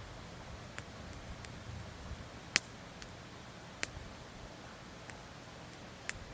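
Campfire crackling: burning firewood gives a few sharp, separate pops, the loudest about two and a half seconds in, over a low steady hiss.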